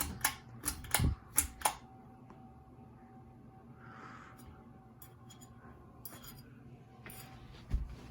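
About half a dozen sharp clicks in quick succession, then the faint steady hum of a 48-inch Harbor Breeze Vue ceiling fan running, with a few light clicks later and a single thump near the end.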